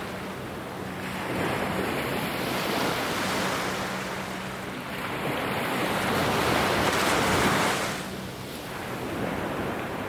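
Sea waves washing in on the shore, the surge swelling and ebbing twice, with the bigger wash about two-thirds of the way in falling away suddenly.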